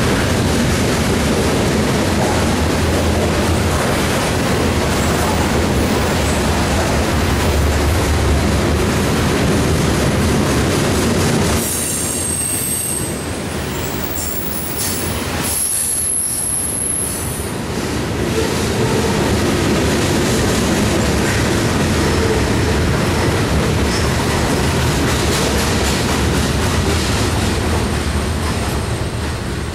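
Covered grain hopper cars of a Norfolk Southern freight train rolling past: a steady, loud rumble and rattle of steel wheels on the rail. In a softer stretch around the middle, brief high-pitched squeals come from the wheels.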